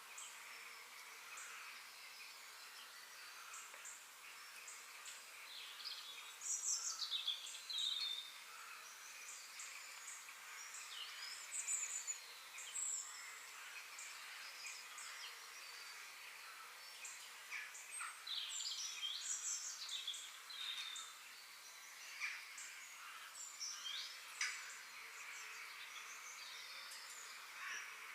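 Birds chirping and calling in quick, short phrases, several overlapping, over a steady outdoor hiss.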